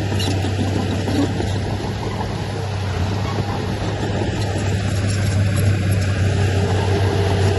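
Heavy diesel engine of earthmoving machinery running steadily under load, a constant low drone.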